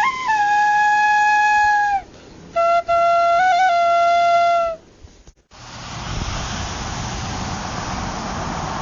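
Two long held flute-like notes, the second lower than the first with a brief wavering in its middle. About halfway through they give way to a steady hiss and rumble.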